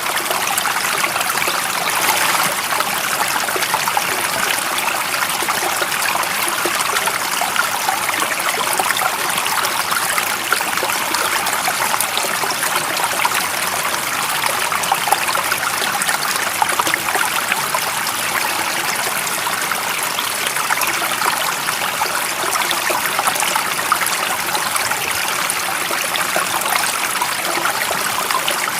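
Water of a stream running and trickling over stones, a steady babble of splashing and gurgling without pauses.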